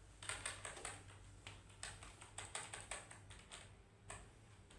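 Rapid, irregular light clicking and tapping, several clicks a second, over a faint steady low hum.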